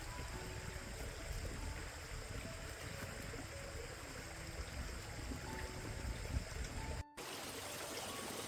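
Steady rush of flowing water, like a stream, with soft melodic background music over it. The sound drops out for a moment about seven seconds in.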